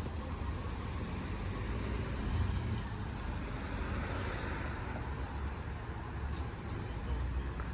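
Steady road traffic noise: the low rumble of car engines and passing vehicles, with no single event standing out.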